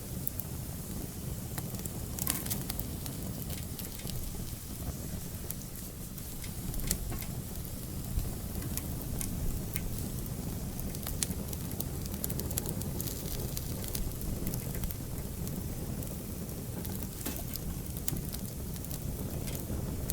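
Wood fire burning in an outdoor fireplace: a steady hiss and rumble of flames with frequent sharp crackles and pops.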